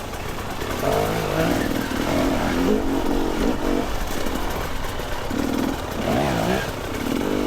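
Two-stroke dirt bike engine revving up and down in short bursts while being ridden through a rough, technical trail section.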